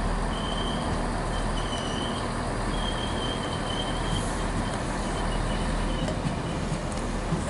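Class 68 diesel locomotive passing close by at the head of a passenger train: a steady low engine rumble with wheel noise on the rails, and a high, thin squeal that comes and goes for most of the pass.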